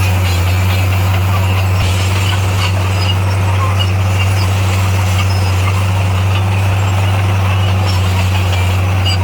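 D58A bulldozer's diesel engine running at a steady speed, a constant low hum with a rattly haze over it and no revving.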